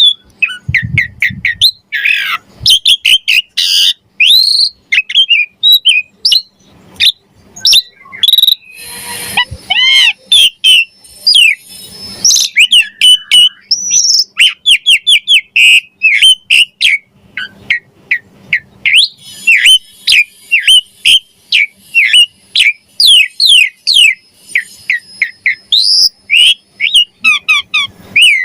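Pied starling (jalak suren) singing hard: a rapid, loud string of whistled notes, many of them quick falling sweeps repeated several times a second, mixed with harsher rasping phrases and varied mimicked calls.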